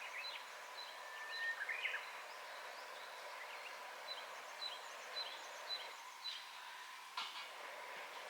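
Birds chirping with many short, high calls, and a longer call about a second in, over a faint steady hum. A single sharp click sounds near the end.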